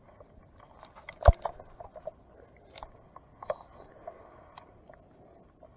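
Scattered light clicks and taps, with one sharp knock a little over a second in.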